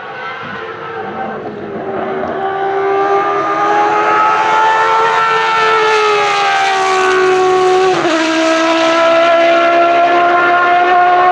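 Racing car engine under acceleration, getting louder, its note climbing, dropping sharply at an upshift about eight seconds in, then climbing again.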